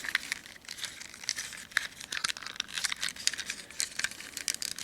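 Plastic parts of a Transformers figure clicking and rubbing as its arms are bent and folded into the truck body: a run of irregular light clicks and scrapes.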